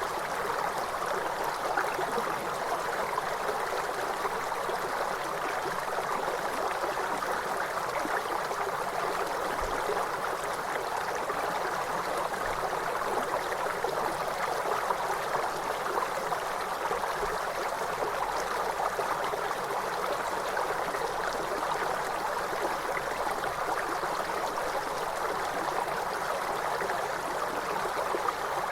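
River water flowing steadily, an even rushing sound with no change in level.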